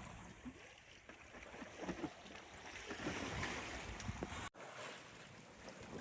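Sea water rushing and splashing along a sailboat's hull under way, with wind on the microphone. The sound cuts out sharply about four and a half seconds in and comes back without the low wind rumble.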